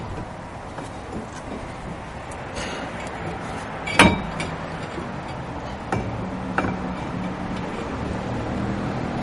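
Brake caliper assembly being fitted back over the disc rotor: a sharp metal clank about four seconds in and two lighter knocks later, over a steady background hum.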